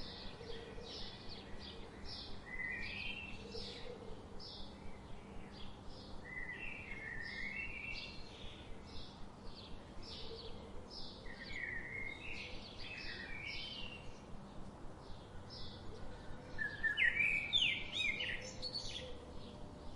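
Songbirds singing: short high notes repeated a few times a second by one bird, with warbled phrases from others woven through, and a louder burst of song about three quarters of the way in.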